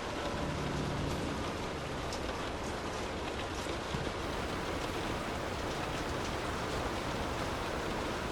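Steady rain falling, a dense even hiss with scattered drops ticking through it.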